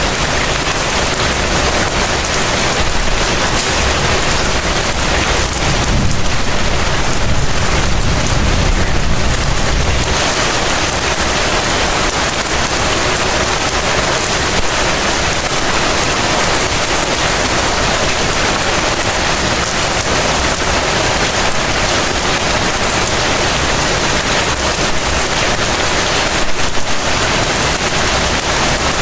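Heavy rain pouring down, a dense steady hiss with no let-up. A low rumble swells under it about six seconds in and lasts about four seconds, and there is a brief louder spatter near the end.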